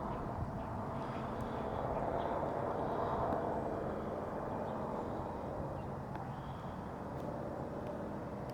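Outdoor street ambience: a steady rush of traffic noise that swells as a vehicle passes about three seconds in, then eases off.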